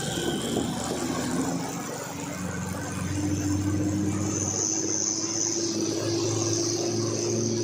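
Heavy truck's diesel engine pulling under load on a steep climb. It grows louder and slightly higher about three seconds in, and a high whine joins it halfway through.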